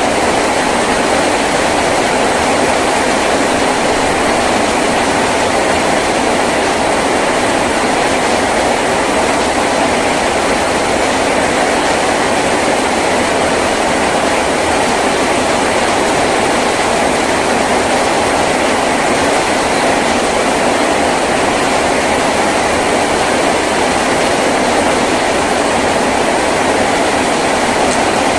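Heavy rain drumming steadily on a tin roof, a dense, even wash of noise with no let-up.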